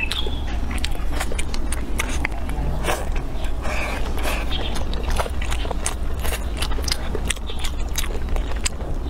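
A person chewing and biting food close to the microphone, with many short, sharp, wet mouth clicks and smacks, over a steady low hum.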